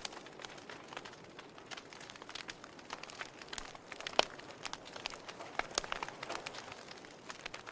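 Wood fire in a fireplace crackling, with irregular sharp pops over a soft steady hiss; one louder pop a little past the middle.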